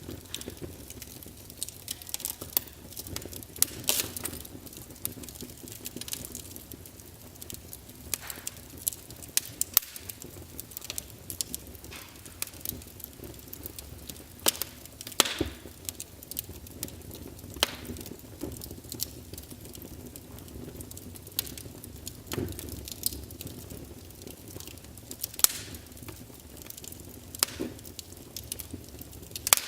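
Wood fire in a fireplace crackling, with irregular sharp pops and snaps of burning logs over a low steady hiss.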